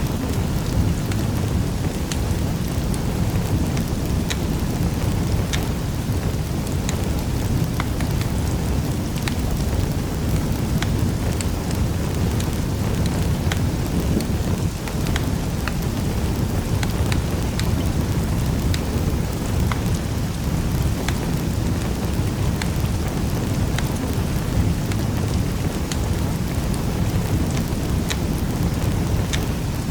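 Crackling wood fire in a fireplace: a steady low rumble of flames under many irregular sharp crackles and pops.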